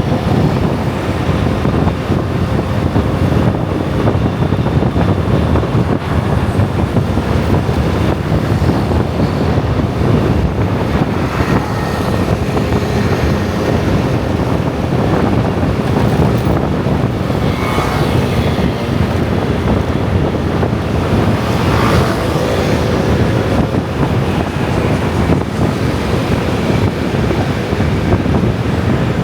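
Dense scooter and motorbike traffic running steadily, with wind buffeting the microphone; a few engines rise and fall in pitch as they pass, about two-thirds of the way through.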